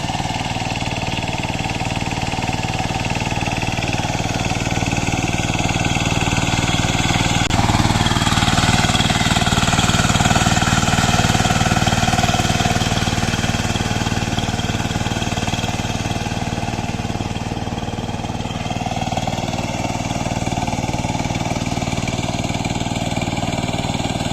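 Power tiller engine running steadily, with the note changing about a third of the way in and growing louder for several seconds before settling again.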